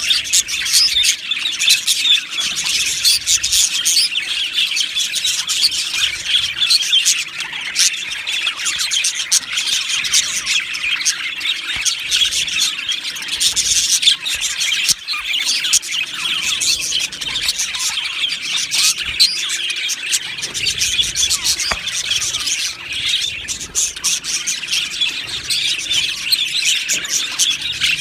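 A colony of budgerigars chirping, chattering and warbling together without a break, many birds calling over one another, with occasional sharper squawks.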